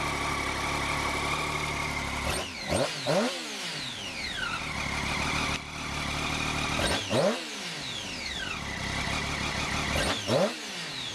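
Triumph Daytona 675's inline three-cylinder engine, on its factory exhaust, idling and blipped three times: each time a quick double rev that rises sharply and falls back to idle.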